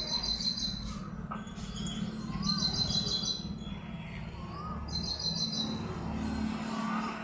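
A bird singing a high, rapid trilled phrase of about a second, repeated roughly every two and a half seconds, with a short rising-and-falling whistle between phrases. A steady low hum runs underneath.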